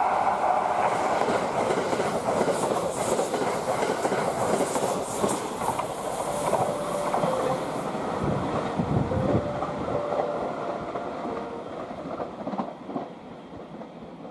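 A train passing on the rails, its wheels and running gear making a continuous clatter that dies away over the last few seconds.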